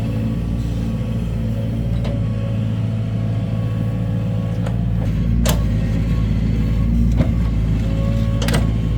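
Heavy diesel engine of an excavator or dump truck running steadily, with a few sharp knocks over it; the two loudest come about halfway through and near the end.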